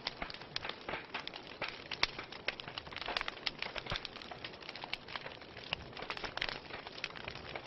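Wood fire crackling: a steady hiss with dense, irregular snaps and pops, a few of them louder, such as one about two seconds in.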